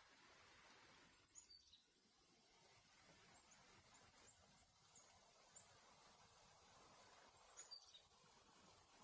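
Faint, brief high bird chirps, a couple near the start, several in the middle and a pair near the end, over a quiet steady hiss.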